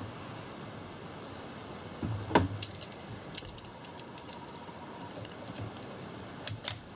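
Light metallic clinks of small metal hardware being handled: one sharp clink about two seconds in, a run of lighter ticks after it, and two more clinks near the end.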